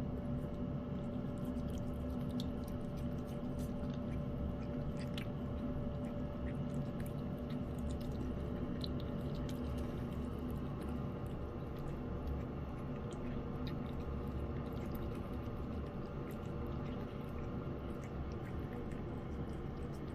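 Cat chewing wet cat food in gravy: soft, wet chewing with small scattered clicks, over a steady background hum.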